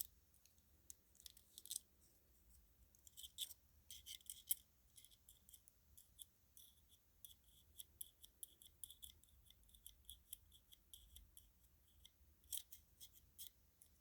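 Many small, sharp clicks and ticks of hard little parts being handled: the string lights' glass mini bulbs and plastic sockets tapping together. They come in quick clusters, loudest about four seconds in, then as a run of light ticks a few per second, and a short cluster again near the end.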